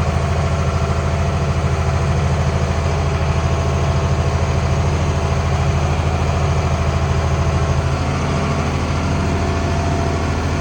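International 1566 tractor's six-cylinder turbo diesel running steadily under load while pulling a field cultivator, heard from inside the cab as a constant low drone, with a slight change in tone about eight seconds in.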